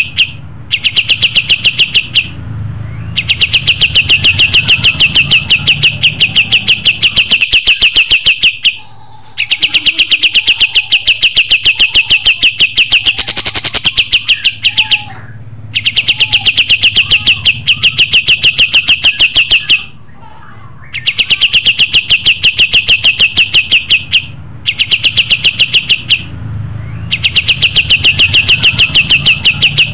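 Kapas tembak songbird singing in its natural voice: a fast, even trill of about ten high notes a second, held for phrases of several seconds with short pauses between them, over a low hum.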